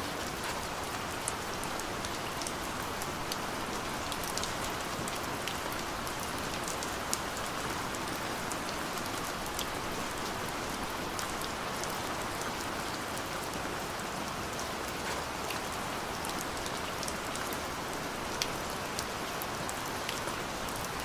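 Steady rain falling, an even hiss with many scattered sharp drop ticks on a surface.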